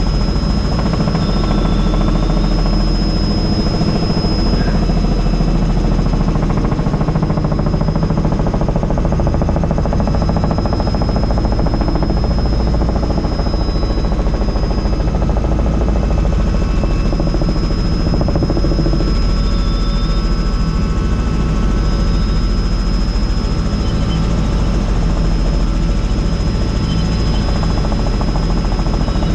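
Helicopter in flight heard from on board with the doors off: a loud, steady rotor and engine drone with a steady high whine over it.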